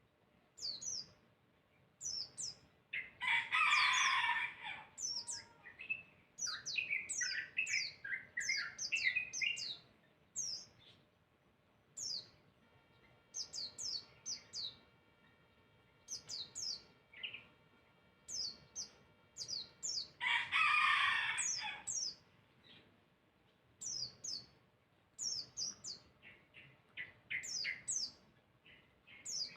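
Songbird calling: quick sharp, high chirps that sweep downward, in loose groups, broken twice by a louder harsh, rasping burst of chatter.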